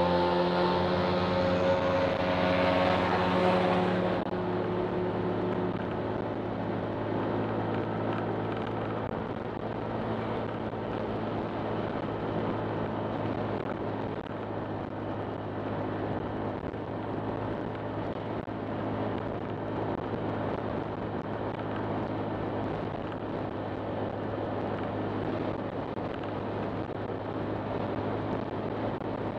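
Honda Click 125 scooter's single-cylinder engine running steadily under way, with road and wind noise. For the first four seconds or so a louder, slightly rising engine tone stands out before the sound settles.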